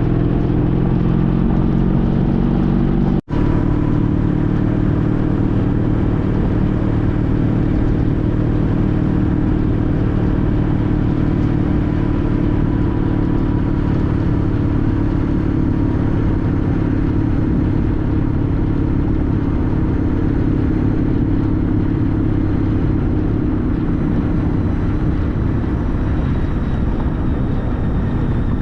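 A 2014 Honda CTX1300's V4 engine runs at a steady pitch. The sound cuts out for an instant about three seconds in.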